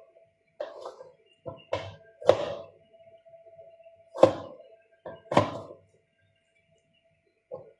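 A series of irregular knocks and thunks, about eight over several seconds, the loudest three a little past two seconds, about four seconds and about five and a half seconds in, over a faint steady hum.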